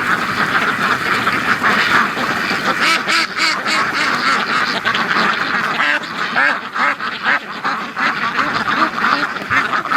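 A flock of Pekin ducks quacking continuously, many calls overlapping into a steady din.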